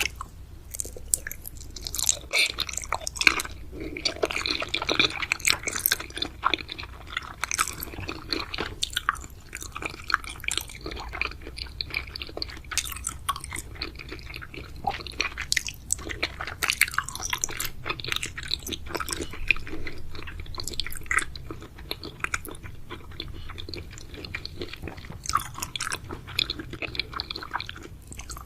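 Close-miked chewing of soft, chewy sweets (jelly, gummies and boba pearls): a continuous run of short clicks and smacks from the mouth, busiest in two stretches, a few seconds in and again past the middle.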